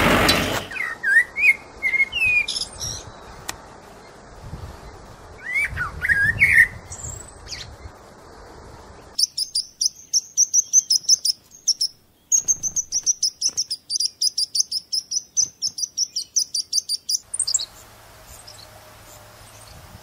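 Birds calling: a few short whistled calls in the first seconds, then from about nine seconds a rapid run of high chirps, several a second, lasting about eight seconds.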